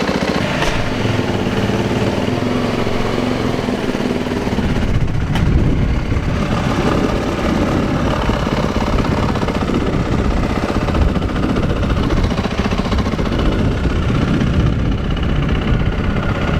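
2018 Yamaha YZ450F's single-cylinder four-stroke dirt bike engine running, freshly started. The note changes about four to five seconds in, growing heavier and less even.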